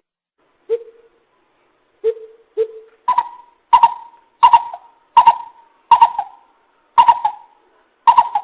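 Coucal (bìm bịp) hooting, recorded as a lure call: three low hoots in the first few seconds, then a run of seven higher hoots about two-thirds of a second apart.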